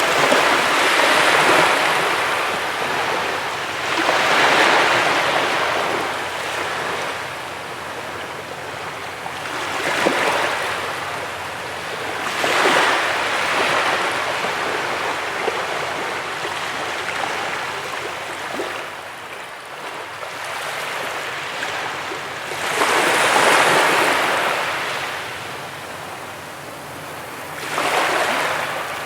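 Sea waves breaking on a beach: a steady wash of surf that swells into a louder surge every few seconds as each wave comes in.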